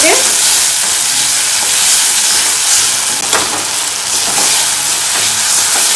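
Chopped tomatoes, onions and cashews sizzling in hot oil in a steel kadhai, stirred with a metal spatula that scrapes the pan. The sizzle is a steady hiss, with a couple of sharper scrapes about halfway through.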